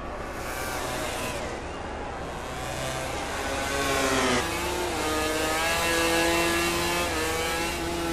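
MotoGP racing motorcycle engines, 1000 cc four-stroke, at full throttle. The note climbs in pitch, drops sharply about four and a half seconds in at an upshift, then holds high and wavers.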